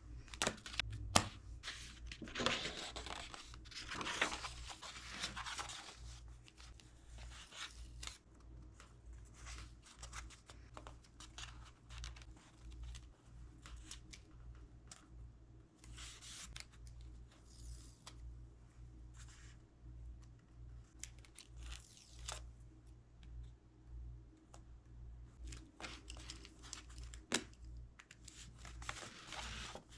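Paper rustling and book pages turning in short swishes, loudest in the first few seconds, over a low steady hum.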